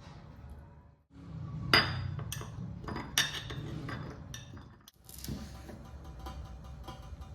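Dishes and cutlery clinking, with a few sharp knocks over a low steady hum. The sound cuts out abruptly twice, at about one second and five seconds in.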